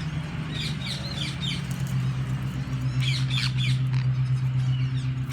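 Birds squawking and chirping in short, quick runs of high calls, about half a second in and again around three seconds in. Under them runs a steady low hum, the loudest sound throughout.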